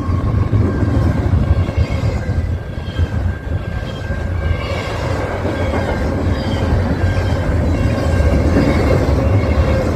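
CN train running past, with a steady rumble and faint clickety-clack, and wind buffeting the microphone.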